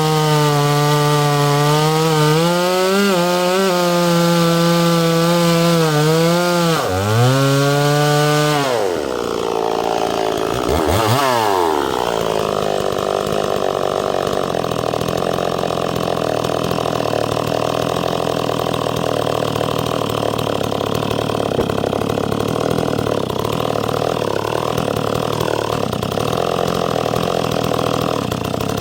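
Two-stroke chainsaw cutting oak at high revs, its pitch wavering under load; about nine seconds in the revs fall away, flare briefly, then the saw settles into steady, lower-speed running.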